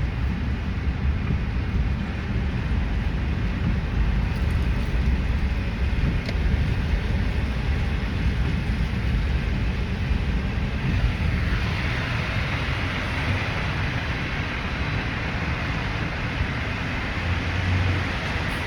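Car driving on a rain-wet road: a steady low road and engine rumble with tyre hiss, the hiss swelling louder about halfway through.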